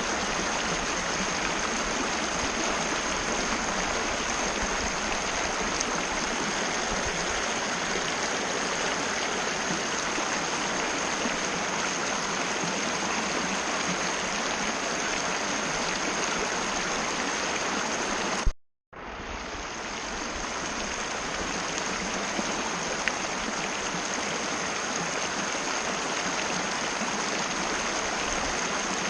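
Mountain river running steadily over rocks, an even rushing flow. About two-thirds through there is a click and the sound cuts out for a moment, then fades back in, as at an edit point.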